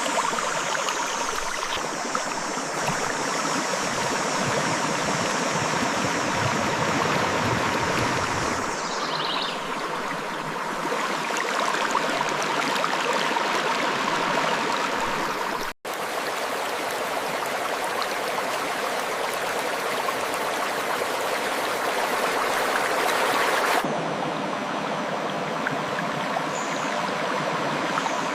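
Clear river water flowing over rocks, a steady rushing babble. About halfway through the sound cuts out for an instant and resumes.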